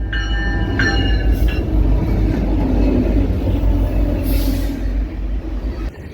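A diesel-hauled train rumbling past close by, with a few brief high squeals in the first second and a half. The sound cuts off suddenly near the end.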